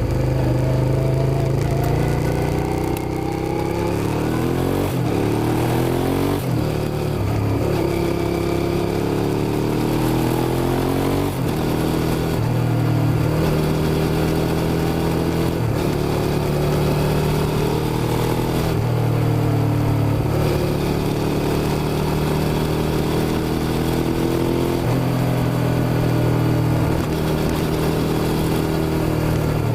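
Suzuki SV650's 90-degree V-twin engine under way, its pitch climbing with the revs and then dropping abruptly at each gearshift, several times over.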